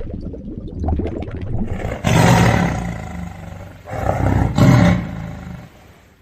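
A large animal roaring twice, with deep, rough calls about two seconds in and again near the end.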